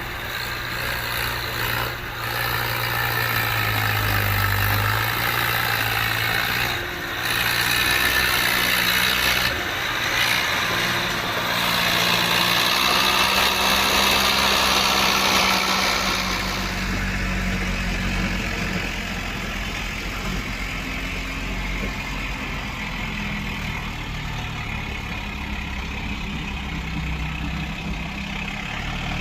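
Tractor diesel engine running hard with a loud, harsh noise for about the first half, then settling into a lower, steadier run close to idle.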